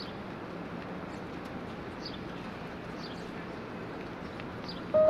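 Outdoor ambience: birds giving short, falling chirps about once a second over a steady background hiss. Music comes in suddenly near the end.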